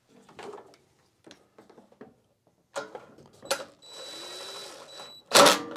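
Hand tools at work fastening 10 mm bolts on a snowblower: scattered small clicks and ratcheting, a steady whir lasting about a second, then a loud sharp clatter near the end.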